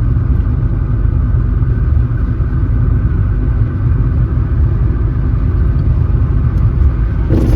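Steady low rumble of a car driving along a road: engine and tyre noise. A short burst of noise just before the end.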